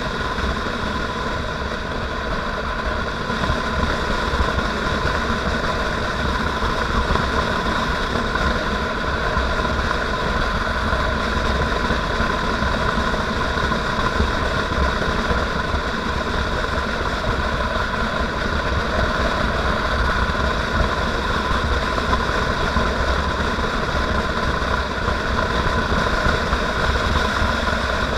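Motorcycle engine running steadily while riding, with a dense low rumble under it.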